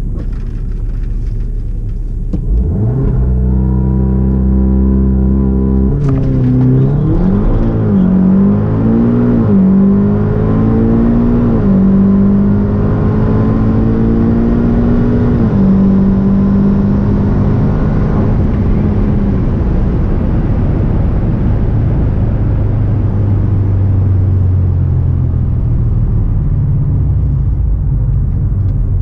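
Heard from inside the cabin, an APR Stage 3+ tuned VW Golf R Mk7's turbocharged 2.0-litre four-cylinder sits at low revs, then launches on a full-throttle quarter-mile drag pass. The engine note climbs and drops back at each of a string of upshifts. Near the end it lifts off and the car coasts down with a lower engine and road rumble.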